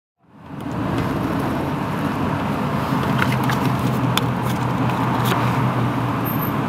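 Car engine running as the car rolls slowly up to a toll booth, heard from inside the cabin. It fades in from silence within the first half second, then holds a steady low hum with a few faint ticks.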